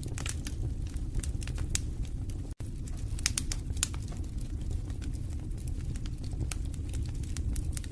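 Wood fire in a fireplace crackling and popping with irregular sharp snaps over a steady low rumble of the flames. The sound drops out for a split second about two and a half seconds in.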